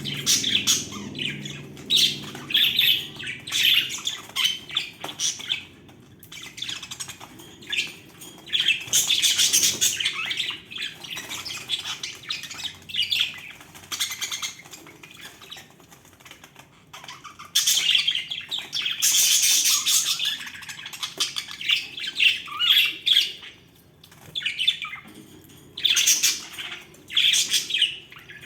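Budgerigars chirping and chattering, a busy run of short calls with louder spells of several birds calling at once.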